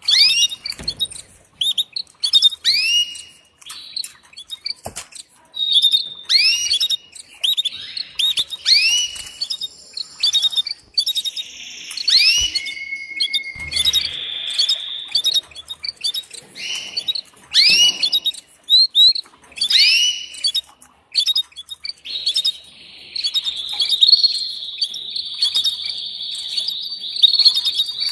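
Female canary giving its mating call to the male: runs of short, sharp arching chirps, repeated over and over. Near the end a long continuous trill sets in and holds.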